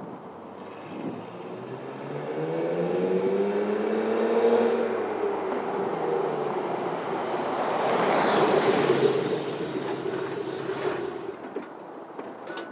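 Ford Explorer 4.0 SOHC V6 engine and exhaust pulling away, the note rising as it accelerates and then holding steady. A louder rushing noise comes about eight seconds in, and the sound fades near the end.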